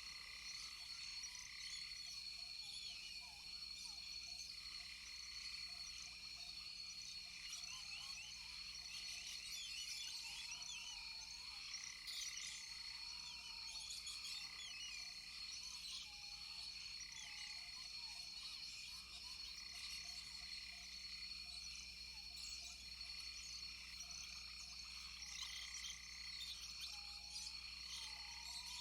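A chorus of frogs calling with insects, a dense layer of many short overlapping chirps over two steady high-pitched trills, and a lower arched call repeating every second or two.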